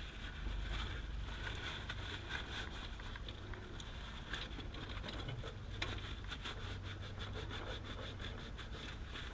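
Light rustling and scraping of wiring being handled, with a quick series of small scrapes and ticks in the second half over a low steady hum.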